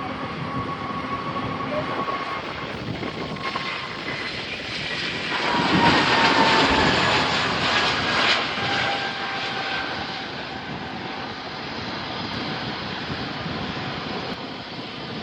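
An airliner's engines passing close by. The rushing engine noise swells to its loudest about six to eight seconds in, and the engine whine drops in pitch as the plane goes by, then eases off.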